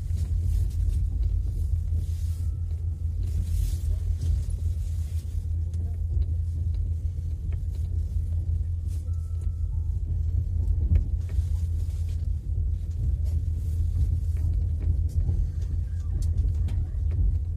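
Steady low rumble of a passenger railway coach rolling along the track, heard from inside the carriage as the train runs in to arrive at the station, with a few faint clicks.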